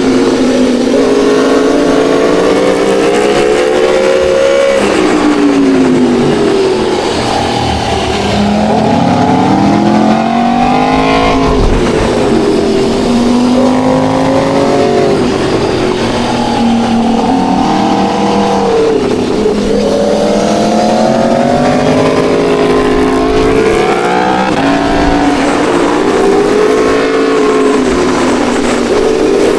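Sport motorcycle engines revving hard through the gears. The pitch climbs, drops at each shift or when the throttle closes, and climbs again, over and over.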